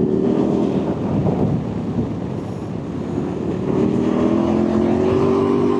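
Motorcycle engine running, its pitch rising steadily from about halfway through as it accelerates.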